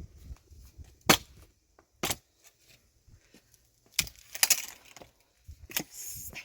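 A handful of sharp knocks and cracks, about five, spaced irregularly with quiet gaps between them. The first, about a second in, is the loudest, and the later ones come with a short rustle.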